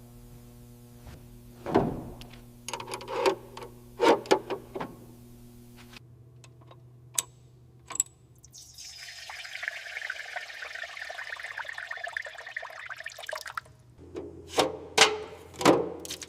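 Sharp metal clanks and knocks over a steady low hum, then a rushing, hissing flow like liquid for about five seconds, then more clanks near the end.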